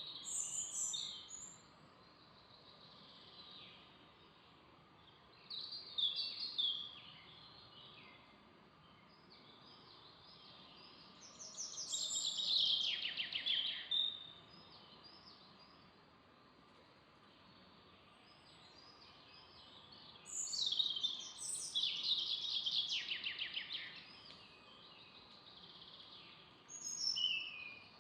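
Songbirds singing in a forest: quick, high trilled song phrases of two to three seconds repeat every several seconds, the loudest a little before halfway and again about three quarters through, over a faint steady background hiss.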